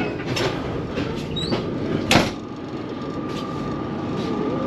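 Running noise of a moving train heard inside an older CNR-built passenger coach: a steady rumble with sharp knocks and rattles, the loudest about two seconds in. A steady whine begins just after that knock.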